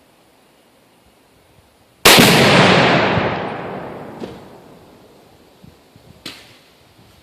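Tannerite exploding target detonating about two seconds in: one sudden loud boom that rolls away over two to three seconds. Two short, much fainter sharp reports come later.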